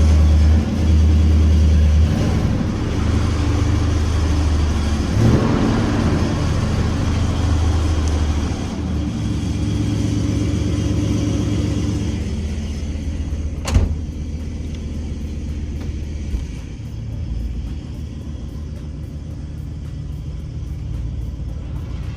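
LS-swapped box Chevy's V8 running through a freshly fitted exhaust, a steady low rumble that is louder in the first half and settles lower after about twelve seconds. A single sharp knock comes about fourteen seconds in.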